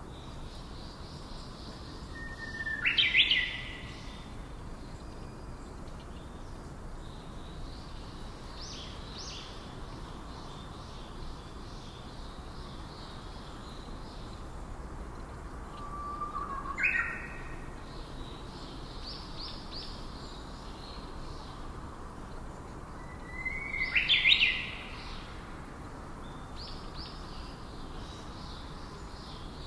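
Birds calling: three loud whistled calls, each a held note that snaps sharply upward, about 3, 17 and 24 seconds in, over fainter repeated high chirping and a steady background hiss.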